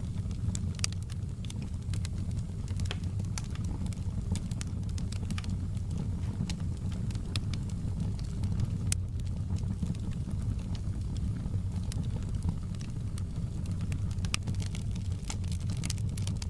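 Wood fire crackling in a fireplace: a steady low rumble of the flames with frequent sharp pops and crackles scattered through it.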